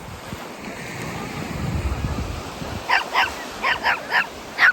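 Gulls calling: a quick run of about seven short calls starting a little after halfway, over the steady low wash of surf and wind.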